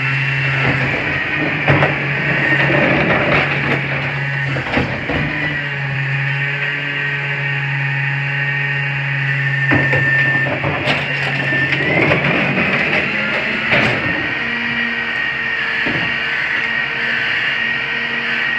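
CNG rear-loader garbage truck working: engine and hydraulic packer running with a steady whine, a few sharp metal clanks, and the pitch rising about twelve seconds in.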